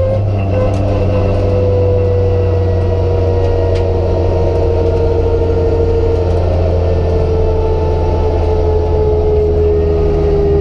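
Opel Corsa's Z14XEP 1.4-litre four-cylinder engine running steadily at light load, heard inside the stripped rally car's cabin with road and tyre noise, its pitch sinking slowly as the car eases off.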